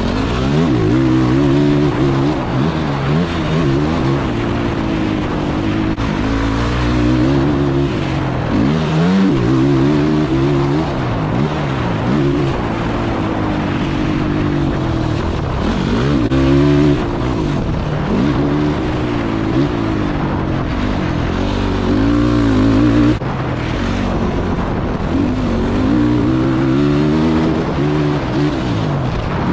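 Yamaha YFZ quad's engine ripping around a dirt track, revving up and dropping off again and again through throttle and gear changes.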